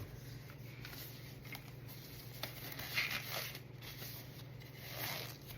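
Small handling noises of craft supplies being moved on a work surface: a few brief rustles and scrapes with faint clicks, over a steady low hum.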